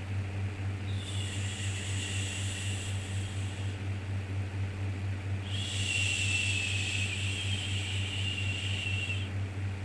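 Looped 'shhh' shushing for soothing a baby: two long shushes of about three seconds each, with pauses of a second or two between them, over a steady low hum.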